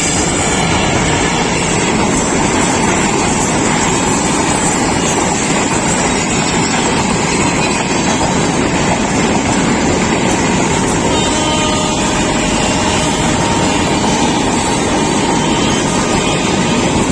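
Panchagarh Express passenger train running at speed: a loud, steady rushing noise, without a break.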